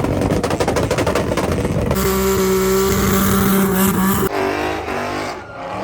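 Car engine revving hard: about two seconds of rapid crackling pops, then a steady high held note, then the revs dropping and swinging up and down again.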